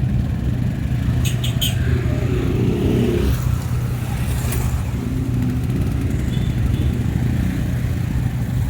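Road vehicle engine running steadily while driving, a constant low drone, with a few sharp clicks about a second and a half in.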